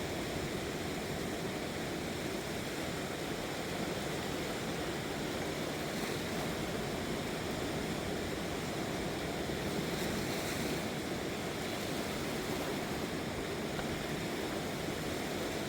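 Steady rushing of a river swollen in flood, an even roar of water with no break.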